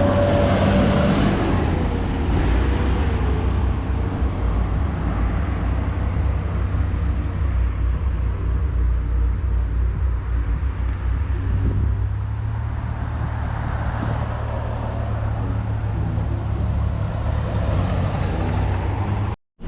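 A motor vehicle travelling on a road: a steady low engine and road rumble.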